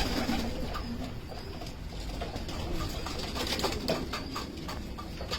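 Frillback pigeons cooing, the low coos strongest in about the first second, with scattered light clicks in the background.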